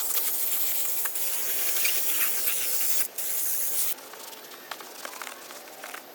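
A jet of spray hissing for about three seconds, cutting off briefly, then hissing again for under a second.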